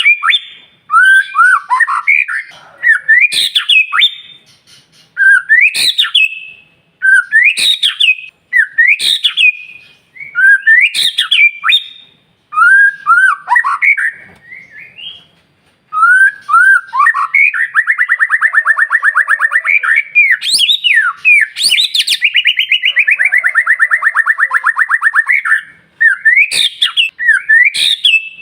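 White-rumped shama singing loudly: short whistled phrases, each sweeping sharply upward, repeated about once a second. From the middle onward it breaks into long fast rattling trills lasting several seconds.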